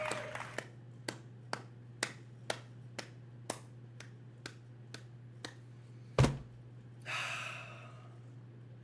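A run of light, evenly spaced taps, about two a second, over the first five seconds. A single loud thump follows, then a short breathy exhale.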